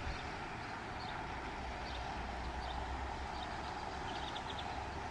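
Steady outdoor background noise with a low rumble underneath and faint, brief high-pitched chirps scattered through it.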